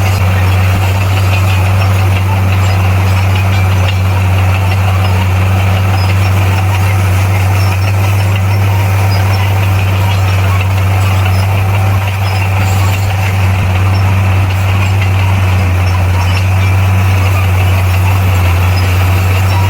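Heavy earthmoving machine's diesel engine running steadily, a loud constant low hum with mechanical noise over it and no marked changes in speed.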